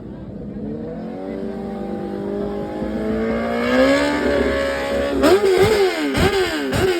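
Benelli 600i's inline-four engine revving: the pitch climbs slowly over the first few seconds, then about four quick throttle blips near the end, each rising sharply and dropping back.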